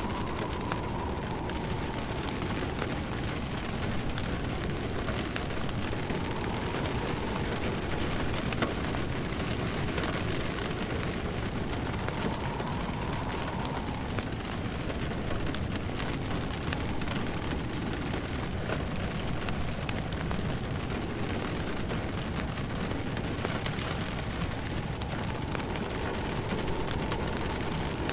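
Steady rain pattering, mixed with a crackling log fire. A faint whistling tone swells and fades every few seconds.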